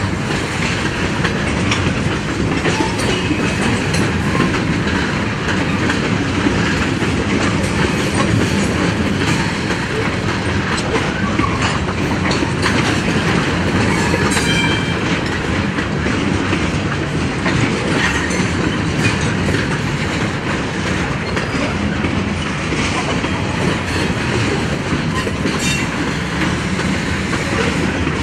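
A freight train of loaded tank cars rolling steadily past, its steel wheels rumbling and clattering over the rail joints, with a brief faint wheel squeal now and then.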